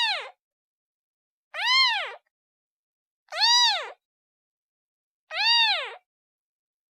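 Kitten meowing in high-pitched calls, each rising then falling in pitch: the end of one call at the very start, then three more at even intervals about two seconds apart, a kitten calling for its mother.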